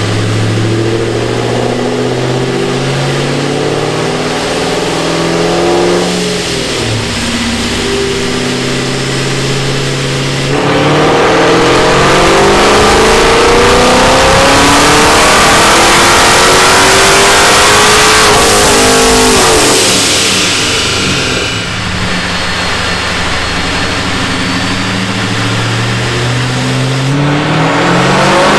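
Supercharged Ford Mustang GT's 4.6-litre three-valve V8 running on a chassis dyno: it runs at low revs with several stepped changes in pitch for about ten seconds, then goes into a loud wide-open-throttle pull with the engine note climbing steadily for about nine seconds. The revs then fall away and begin climbing again near the end.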